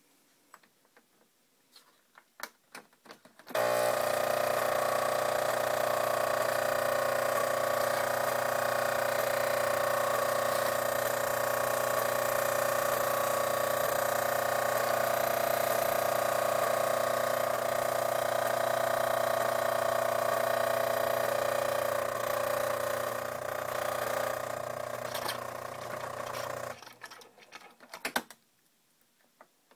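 Jura E8 fully automatic coffee machine running. After a few faint clicks, a loud steady mechanical hum starts suddenly a few seconds in and holds for about twenty seconds. It then eases off and stops, followed by a couple of clicks near the end.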